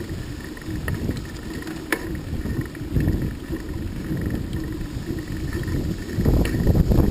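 Wind rumbling and buffeting on the microphone while riding along a road, with the low noise of the moving vehicle. It comes in gusts, strongest about three seconds in and again near the end.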